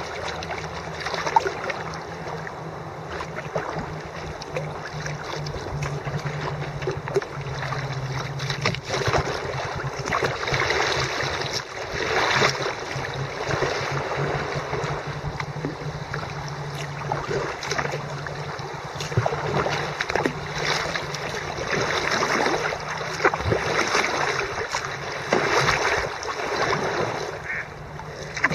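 Water splashing and rushing around a kayak on a fast, flooded river. Swells of splashing come every one to two seconds, in time with paddle strokes.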